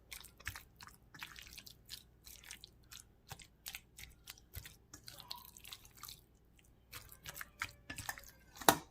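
Small wet squishes and clicks of seasoned raw chicken pieces being handled and mixed in a bowl, with a sharper knock near the end.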